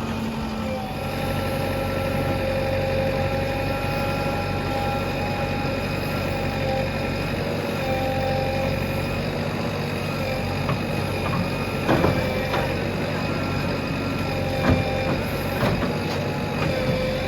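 JCB backhoe loader's diesel engine running steadily with a whining hum, with a few short knocks about twelve seconds in and again a few seconds later.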